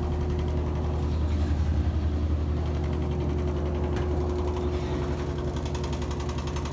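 Top-loading impeller washing machine in its spin cycle: a steady low motor hum with fast, even thudding from the drum spinning slightly out of balance, swelling louder about a second in. A single click about four seconds in.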